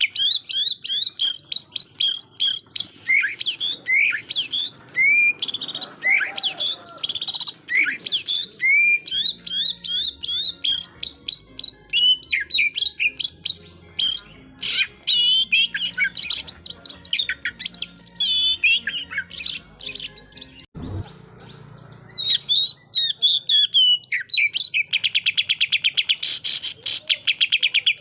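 Oriental magpie-robin (kacer) singing loudly, a varied string of whistled notes and slurred glides broken by fast machine-gun runs of repeated notes (the 'tembakan' style), at the start and again over the last few seconds. About three-quarters through, the song stops briefly and a single low thump is heard.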